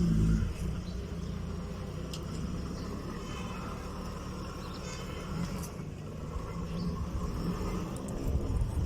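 Mk1 Volkswagen Golf engine idling steadily with a low, even hum, a little louder for a moment right at the start before settling.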